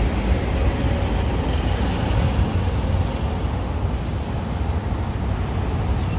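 Wind blowing on the microphone: a steady low rumble with a hiss over it.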